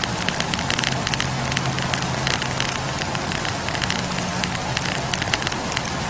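Wood campfire crackling, with many small irregular pops and snaps of burning firewood over a steady low hum.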